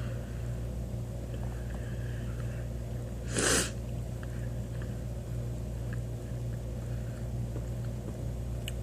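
Someone quietly chewing a Dr Pepper-flavoured Twizzlers licorice twist over a steady low hum, with faint small clicks. One short, loud puff of air comes about three and a half seconds in.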